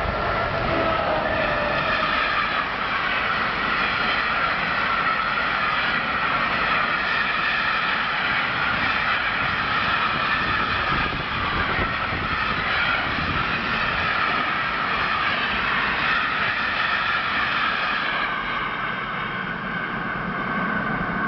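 A freight train rolling past, its wagons making a steady rushing noise with several high, steady ringing tones over it.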